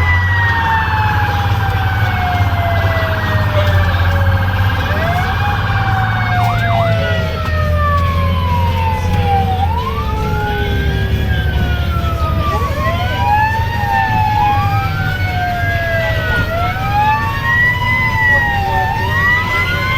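A fire engine's mechanical siren winding up quickly and coasting down slowly, again and again, with its wails overlapping. For about the first six seconds a steady air horn sounds with it, and the truck's engine drones underneath throughout.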